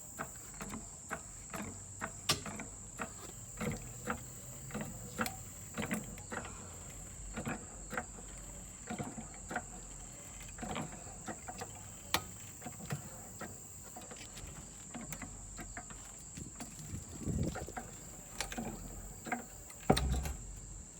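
Irregular clicks and knocks, roughly one every second, from a car jack being worked, with a louder clunk near the end. A steady high trill of crickets runs underneath.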